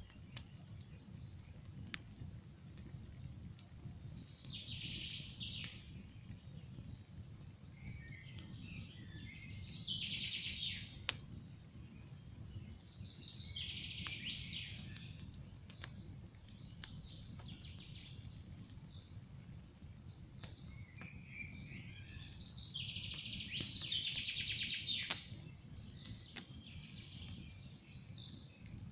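Wood campfire crackling with scattered sharp pops, one louder pop about a third of the way in, over a steady low rumble. Songbirds sing in bursts every few seconds.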